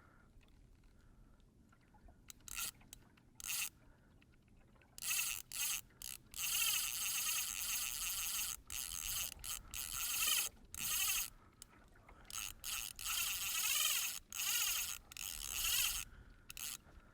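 Fly reel's drag buzzing in repeated bursts while the angler plays a large fish, beginning about five seconds in.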